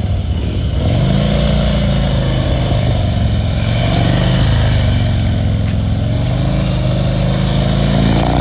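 Harley-Davidson V-twin motorcycle engine running at low speed, the revs climbing about a second in and then rising and falling with the throttle during tight maneuvering.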